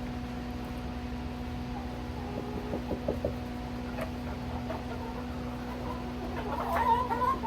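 Laying hens clucking over food, with a few light taps about two to three seconds in and a busier run of clucking near the end.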